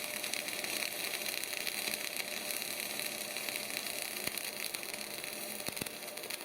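Semi-automatic MAG welding arc burning steadily: an even, crackling hiss full of fine rapid crackles as the wire feeds into the weld pool.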